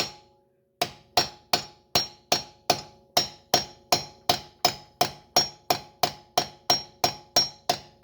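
Hammer striking a 9/16 long socket pushed into a K-series crankshaft's pilot bearing bore, steady blows about three a second with a metallic ring, starting after a brief pause near the start. The bore and socket are packed with bread, so each blow forces the bread behind the pilot bearing to push it out of the crank.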